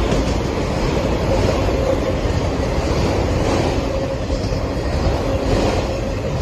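Empty autorack freight cars rolling past at speed: a steady rumble of steel wheels on the rails.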